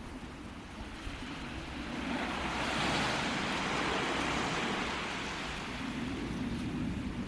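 Sea waves on a beach: a wash of surf swells about two seconds in and fades away by about five seconds, over a steady low rumble.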